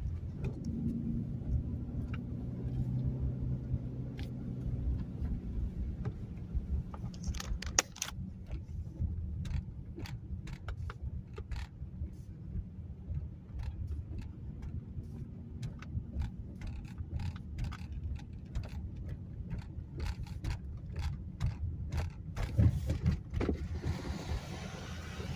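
Car cabin noise on the move: a low steady rumble with frequent small clicks and rattles, and a hiss that builds near the end.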